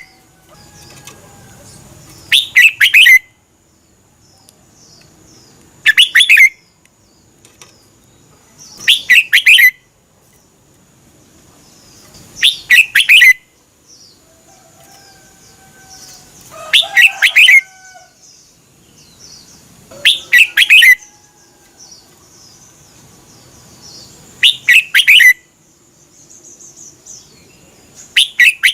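Red-whiskered bulbul singing a loud, short, bubbling phrase of several quick notes about every three and a half seconds, about eight times in all, with fainter bird chirps between.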